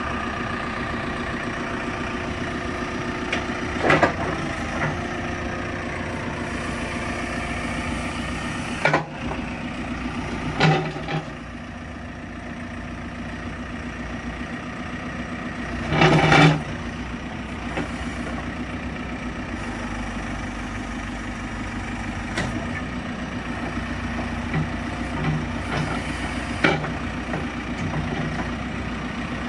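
A heavy vehicle's engine running steadily, with a few brief louder noises about 4, 9, 11 and 16 seconds in.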